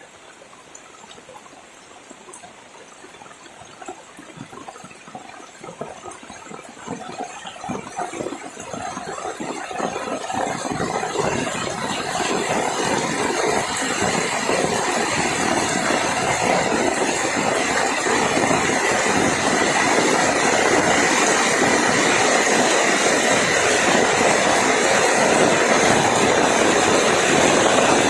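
Heavy rain building quickly from a light patter to a steady downpour within the first dozen seconds, then pouring evenly.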